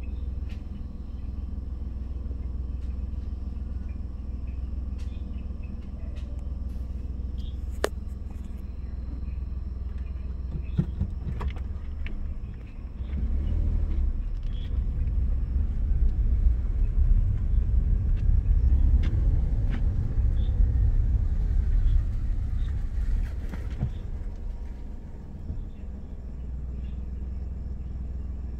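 Car engine rumbling, heard from inside the cabin, growing louder for about ten seconds through the middle before settling back, with a few faint clicks.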